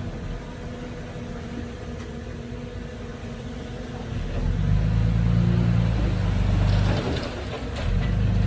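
Diesel engine of heavy earthmoving machinery running, its note rising under load about four seconds in. It eases off briefly near seven seconds with a few rattles, then loads up again.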